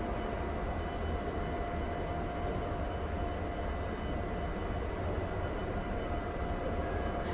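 Fermat WFT 15 CNC horizontal mill running: a steady low rumble with a few steady whining tones over it.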